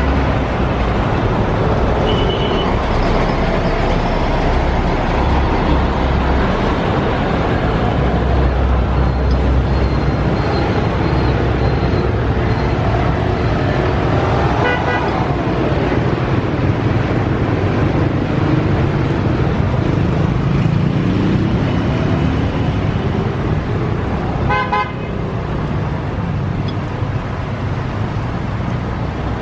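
Steady traffic noise with a vehicle horn tooting in short, rapid beeps twice, about 15 s in and again about 25 s in.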